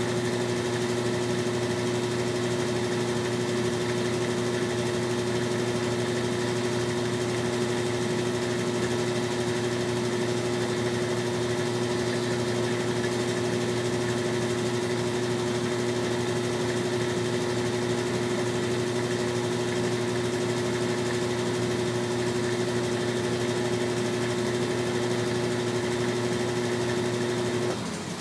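Brastemp BWR12AB top-loading washing machine's motor running with a steady hum. It cuts off abruptly near the end.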